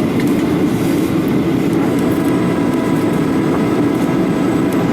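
Airliner passenger-cabin noise: a steady, deep rushing of engine and airflow noise heard from inside the cabin, with a few faint thin steady tones above it.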